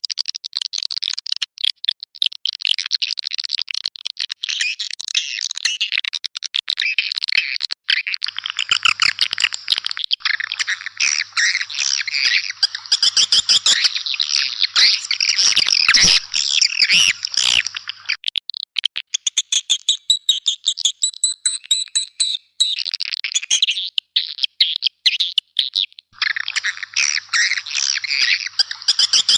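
Swiftlets chirping and twittering in a dense, unbroken chorus of rapid high calls, a swiftlet call recording of the kind played to lure swiftlets into nesting houses. The chorus thins briefly a little past the middle and swells again near the end.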